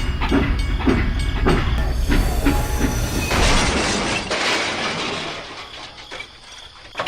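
Rhythmic mechanical clatter at about two beats a second, then a hiss that swells about three seconds in and fades away.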